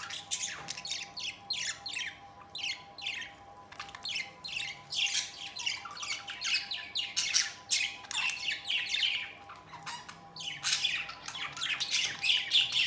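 Budgerigars squawking and chattering in rapid, harsh, short calls, squabbling over a nest. The calls come thickest near the end.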